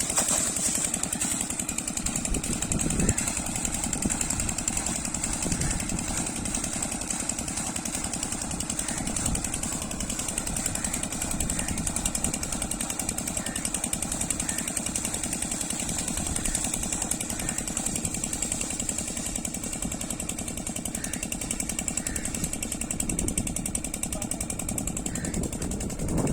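Oil-engine-driven air compressor running steadily with a rapid, even knocking beat, under a constant high hiss.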